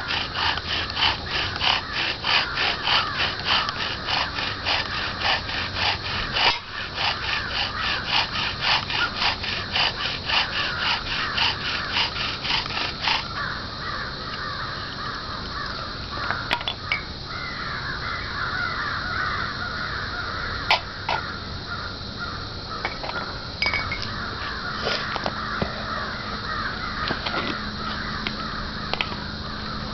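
Birds calling outdoors, over a fast, even pulsing of about three beats a second that stops about thirteen seconds in.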